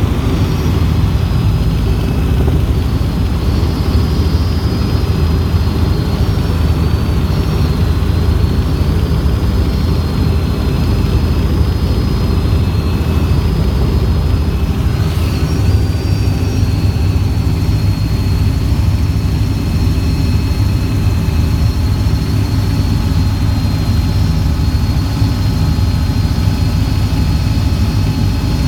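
Helicopter in flight: a steady, loud low drone of engine and rotor with a thin high whine on top, unchanging throughout.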